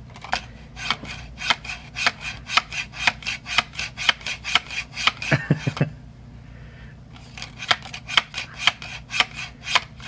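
A quick, even series of sharp clicks or taps, about four a second, broken by a pause of over a second in the middle.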